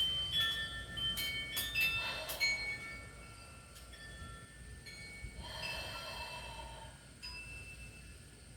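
Chimes ringing, several struck notes that start suddenly and hang on, thickest in the first couple of seconds. Two long exhaled breaths come through softly, about two seconds and six seconds in, flat-sounding with the deep stretch.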